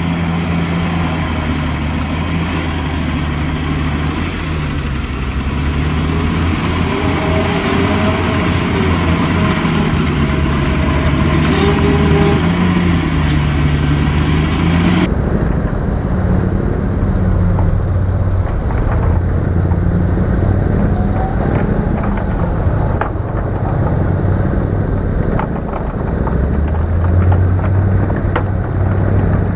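Heavy diesel earthmoving machine engine running under changing load, its pitch rising and falling in slow waves. About halfway through, the high hiss suddenly drops away while the engine carries on.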